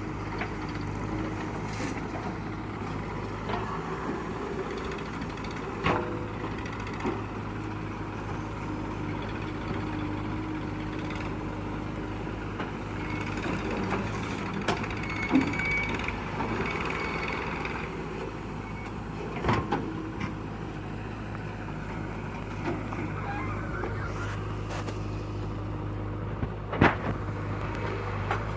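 JCB 3DX backhoe loader's diesel engine running steadily as it loads soil into a tractor trolley, with a few sharp knocks spread through it.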